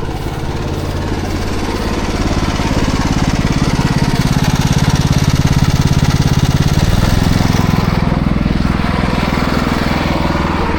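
Gas engine of a pressure washer running steadily at raised RPM, with the hiss of a water spray over it.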